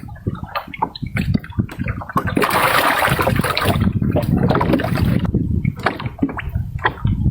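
Water splashing and sloshing: a run of quick, choppy splashes, with a louder, steadier rush of water lasting about three seconds in the middle.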